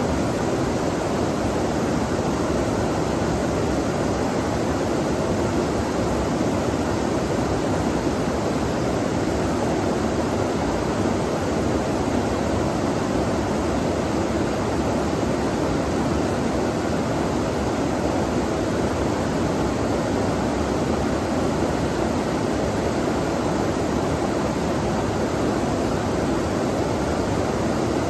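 Flowing water of a stream, a steady, even rush with no breaks or separate splashes.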